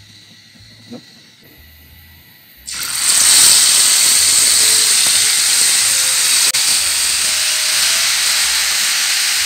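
Marinated chicken pieces going into hot oil in a frying pan: a loud sizzle starts suddenly about three seconds in and carries on steadily as they fry.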